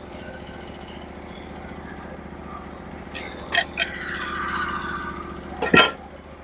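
Engine of a Norwood HD36v2 portable bandsaw mill running steadily, with a few sharp clicks a little past three seconds in and a loud metallic clank near the end.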